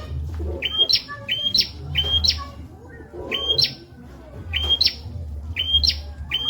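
Prenjak calling: sharp two-part chirps, each a short note that jumps abruptly higher, given in quick runs of about two a second, with a pause of about two seconds in the middle. A low hum runs underneath.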